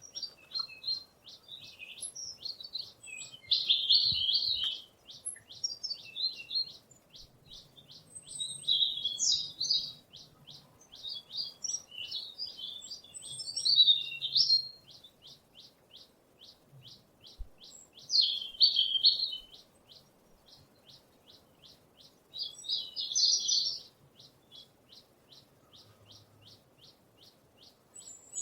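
Small songbirds singing in short, loud bursts of high warbling phrases, repeated every few seconds, over a steady series of high ticks at about three a second.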